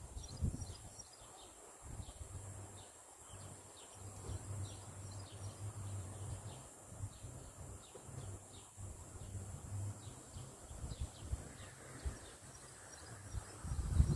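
Small birds chirping in short, quick calls again and again, over a steady high drone and a low fluctuating rumble.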